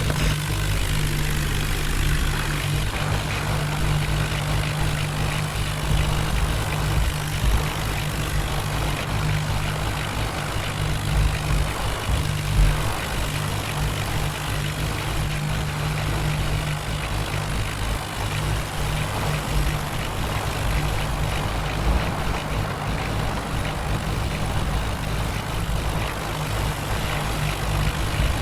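A heavy diesel engine running steadily at low revs with a deep, even drone.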